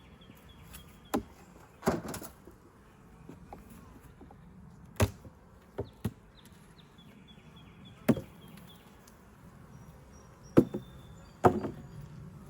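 Beehive parts being handled and opened: about eight sharp knocks and clunks at irregular intervals, over a steady low hum of bees. Birds chirp faintly now and then.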